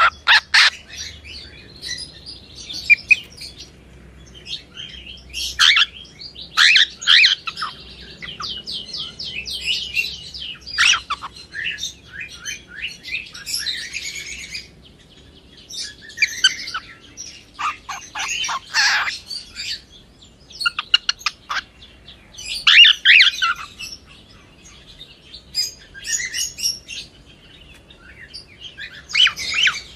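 Cockatiel chirping in bouts of quick, high chirps every few seconds, with short pauses between.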